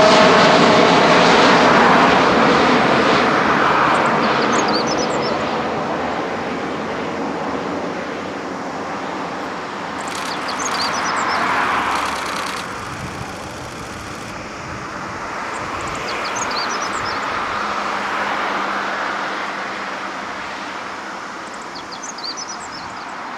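Jet engine roar of a departing Boeing 787-9 climbing away after takeoff, a broad rumbling noise that slowly fades, swelling and ebbing a couple of times as it recedes. Faint short chirps come and go high above it.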